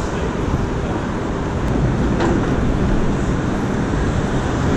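Steady rush of wind noise and city street traffic, heard while riding a BMX bike.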